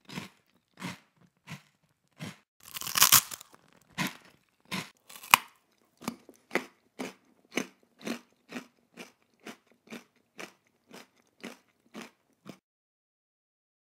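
A person making crunching, chewing-like noises with the mouth: short crackly bursts about two a second, one longer, louder crunch about three seconds in, stopping about a second before the end.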